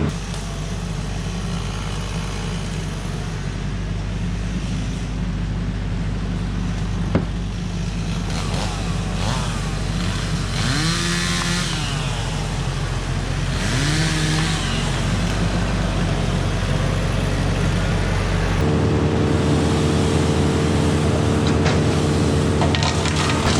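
An engine runs steadily. Its pitch briefly rises and falls twice around the middle, and its note changes abruptly about three-quarters of the way through.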